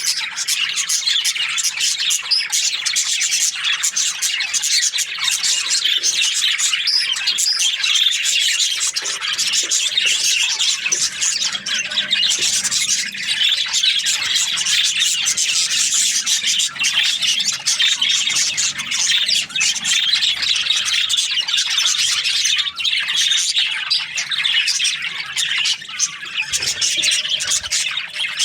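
A flock of budgerigars chirping and chattering continuously, many overlapping calls with occasional squawks.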